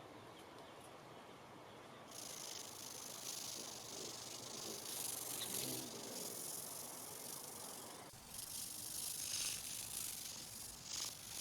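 Faint steady hiss that gets louder about two seconds in and shifts near eight seconds, with a few short swells near the end.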